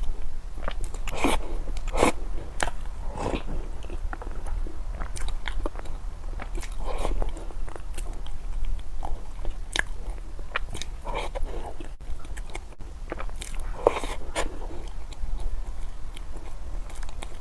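Close-miked eating: irregular biting and chewing with crunchy, crackly mouth sounds, a few bites and chews a second.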